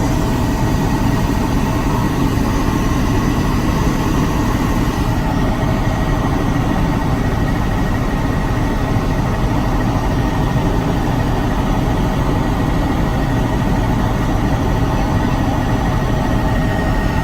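Helicopter in flight heard from inside the cabin: a steady, loud rotor and engine noise with a thin, unchanging whine above it.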